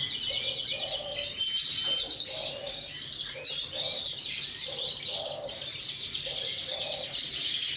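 Many caged canaries chirping and trilling together, with a lower call repeating regularly underneath.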